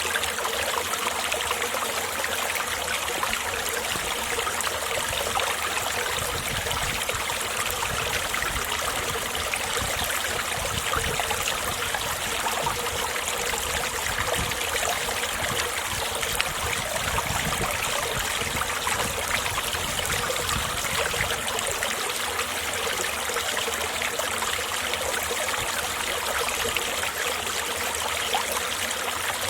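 Winter mountain stream running steadily, a continuous rush and babble of water. A deeper low rumble joins it for a while in the middle.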